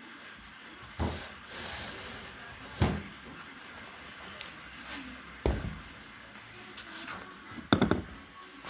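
A few separate knocks and clunks of objects being handled, about four in all, with a quick rattling cluster near the end that is the loudest.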